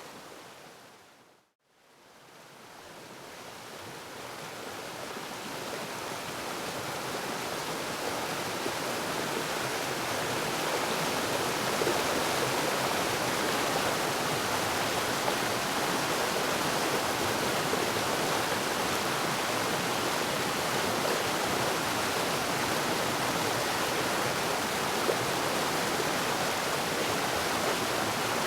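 Waterfall, a steady rush of falling water. About a second and a half in it fades out to silence, then slowly fades back in over several seconds to a steady level.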